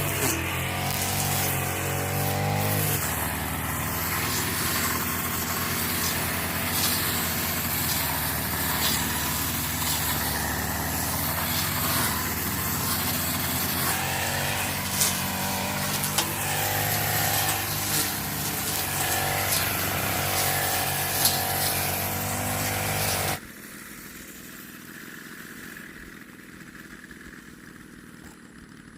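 A motor engine running steadily under load, with scattered clicks and knocks and its pitch shifting a few times, then cutting off abruptly near the end.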